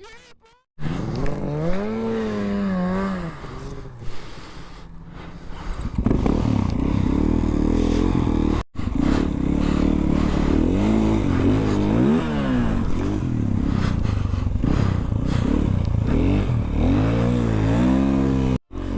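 Snowmobile engine revving hard through deep powder, its pitch climbing and dropping again and again, in several short clips cut together with brief silent gaps between them.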